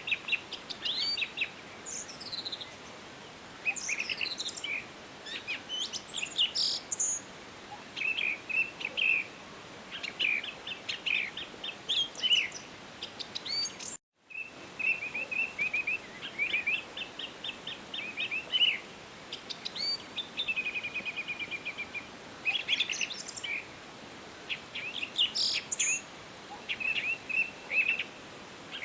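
Several songbirds singing in a forest: overlapping chirps, quick trills and short rising whistles over a faint steady hiss. The sound cuts out completely for a fraction of a second about halfway through, then resumes.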